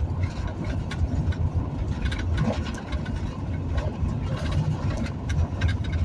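Vehicle driving along a highway: a steady low road and engine rumble, with a few faint ticks and knocks.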